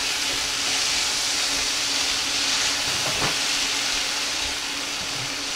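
Diced onion, peppers and pineapple chunks sizzling steadily in a frying pan while being turned with tongs, with one light knock about three seconds in.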